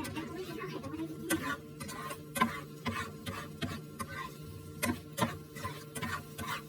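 Kitchen clatter: irregular light clicks and knocks of kitchenware, a few a second, over a steady appliance hum.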